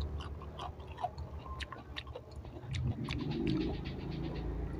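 Crunching and chewing of a raw winged bean close to the microphone: a run of short, sharp crunches.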